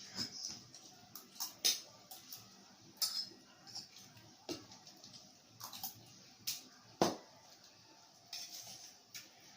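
Cutlery clinking and tapping on plates in irregular, sharp strikes as people eat, the loudest clinks about a second and a half in and near the middle.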